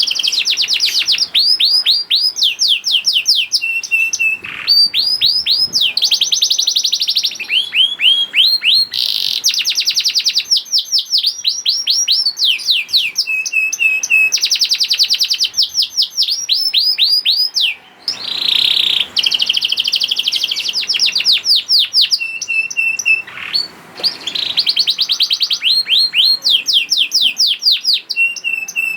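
Domestic canary singing continuously in fast trills of rapidly repeated sweeping notes, high-pitched, with two short breaks partway through.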